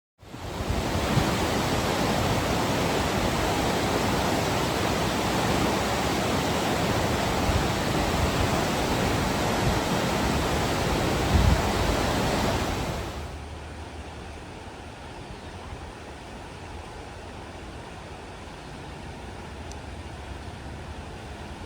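Steady rushing noise with no distinct events, loud for about the first 13 seconds and then dropping abruptly to a quieter rush.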